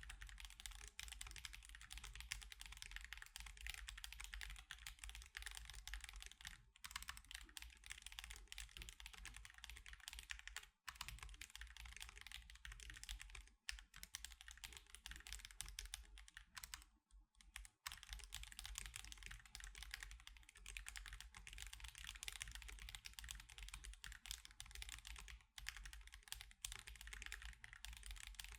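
Steady fast typing on an Akko Alice Pro mechanical keyboard fitted with Akko CS Crystal switches and osumekeys Sakura + Mochi keycaps: a dense stream of keystroke clacks, broken by brief pauses about 11, 14 and 17 seconds in.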